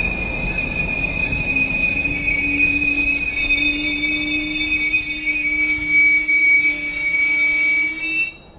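GO Transit bilevel commuter train squealing as it slows to a stop at the platform. A high steady squeal drifts slightly down in pitch, and a lower tone rises beneath it from about two seconds in. The sound cuts off suddenly near the end.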